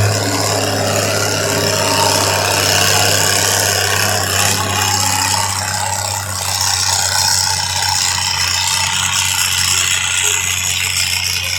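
A vehicle engine running steadily with a low, even hum under a broad hiss.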